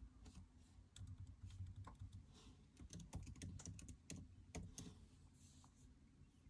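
Faint, irregular clicking and tapping, a quick uneven run of small clicks over a low hum, dying away about five seconds in.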